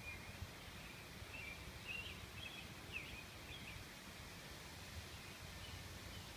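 Faint songbird chirps and short warbled phrases, clustered about a second to four seconds in, over a steady low outdoor rumble.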